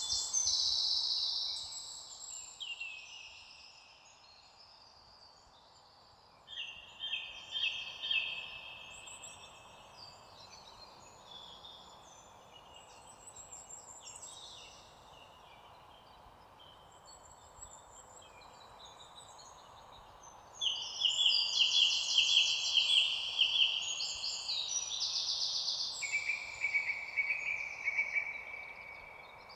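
Songbirds singing, several overlapping phrases and trills over a faint steady background hiss. Louder bursts of song come near the start, about a quarter of the way in, and through most of the last third.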